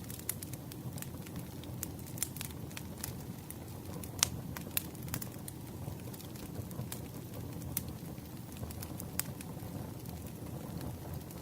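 Campfire burning: a steady low rumble of flames with irregular sharp crackles and pops from the burning wood, one pop louder than the rest about four seconds in.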